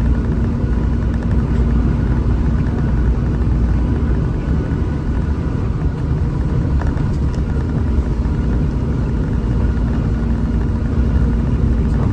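Hino RM 280 bus running steadily on the road: a continuous low rumble of engine and road noise with a steady engine hum.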